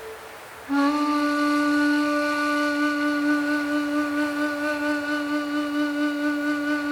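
Ambient music: a single low, flute-like wind note begins about a second in and is held steadily, with a faint airy hiss beneath it.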